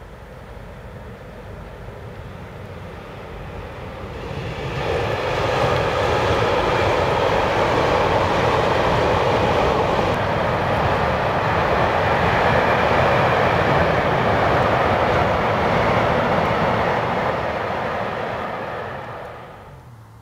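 A train passing close by: a rumble that builds over the first few seconds, a loud steady rolling noise for about fifteen seconds, then a sharp drop near the end as it goes by.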